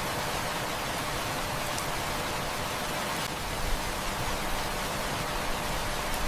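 Heavy rain falling steadily, a dense even hiss, with a few faint crackles from a wood fire.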